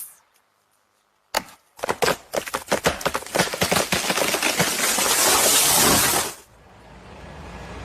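Sound effect of wood cracking and splintering: one sharp crack, then a fast run of snaps that thickens into a loud, dense crackling rush and cuts off suddenly, leaving a faint hiss.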